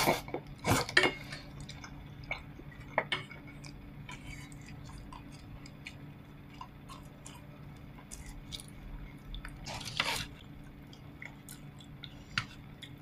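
Eating at the table: quiet chewing of pork ribs with scattered clicks and clinks of utensils against bowls, the loudest about a second in and again near ten seconds, over a steady low hum.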